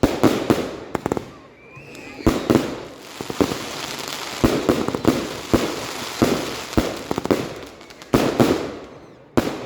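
Fireworks going off one after another: a rapid series of loud bangs, each trailing off into crackle, about a dozen in all.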